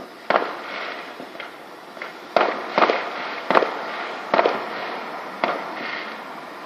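Fireworks going off: a string of about six sharp bangs at uneven intervals over a few seconds, with a few fainter pops between them.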